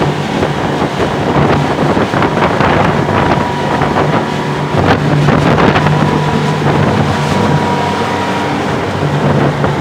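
Motorboat engine running steadily while towing a banana boat, heard through heavy wind noise on the microphone and rushing water.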